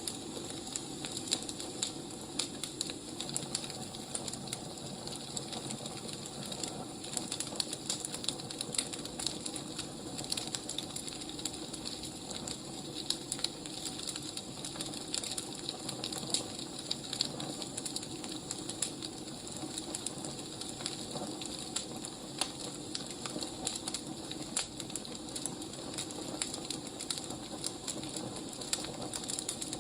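Wood fire burning, with a steady hiss and frequent irregular small crackles and pops from the firewood.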